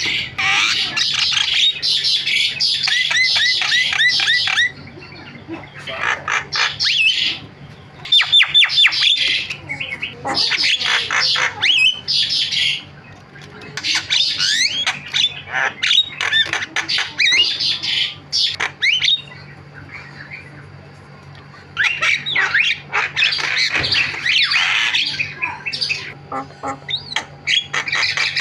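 Javan myna (jalak kebo) singing a loud, chattering song of harsh squawks, rapid rattles and whistled glides. It comes in runs of several seconds broken by short pauses.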